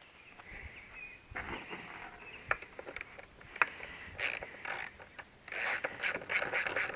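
Metal clicking and rattling of bolts and hand tools being handled, in scattered clicks with two denser spells of rattling near the end.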